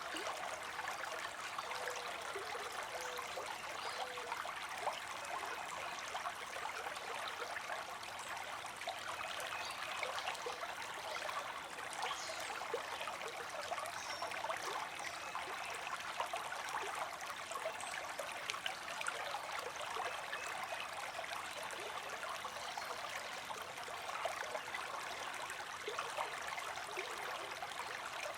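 River water flowing over rocks: a steady rush with many small splashes and trickles.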